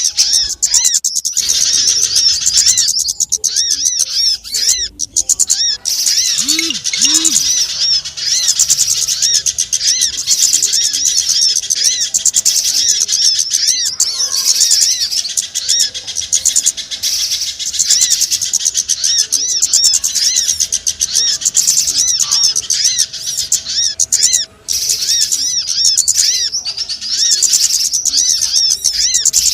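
Bird-lure recording of many small songbirds chirping rapidly and continuously in a dense, high-pitched chorus, used to call small birds in. Two short low notes sound about seven seconds in.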